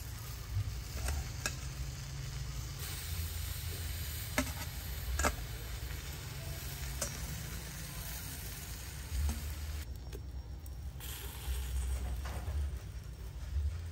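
Food sizzling as it fries and is stirred, a steady hiss with a few sharp clicks, probably from a utensil. The hiss thins out briefly about ten seconds in.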